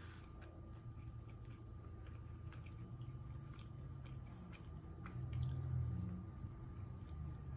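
A person chewing and biting into a small piece of snack food, with soft mouth sounds and scattered small clicks. A louder low hum rises about five seconds in.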